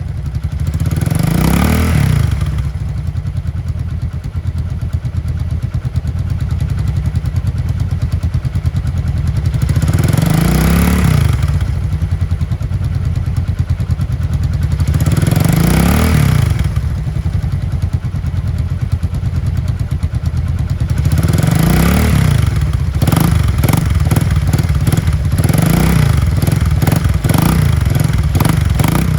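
SL motorcycle engine running after being kick-started, idling with a short rev blip about every five seconds. Over the last few seconds the firing turns uneven and popping.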